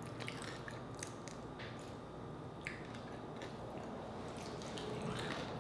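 Close-miked chewing of fried chicken, with wet mouth sounds and scattered small clicks as sauce is licked from a finger.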